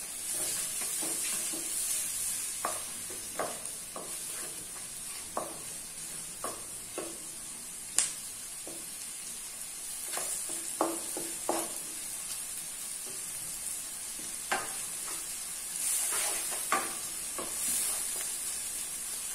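Chopped onion and dried shrimp sizzling in dendê (palm) oil in a frying pan, being sautéd to brown the onion, with a steady hiss. A wooden spoon stirs, knocking and scraping against the pan at irregular moments, once more sharply about eight seconds in.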